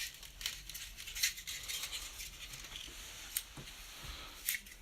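Light rustling with scattered small clicks and taps, like handling of the camera or the model's parts.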